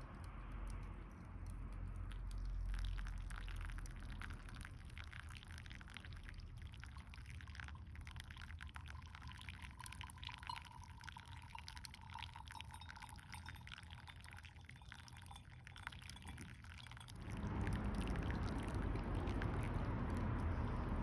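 Water being poured in a thin, steady stream, with a faint ringing tone from the vessel. The pour stops about three quarters of the way through, and a louder, even noise follows.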